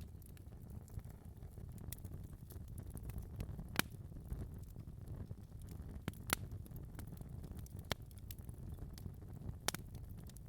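Wood fire burning in a fireplace: a steady low rumble with scattered sharp crackles and pops, the loudest pops about 4, 6 and 10 seconds in.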